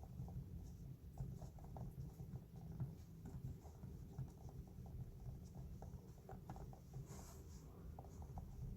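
Typing on an MBF low-noise roll-up silicone keyboard: a quick, irregular run of faint, soft key taps.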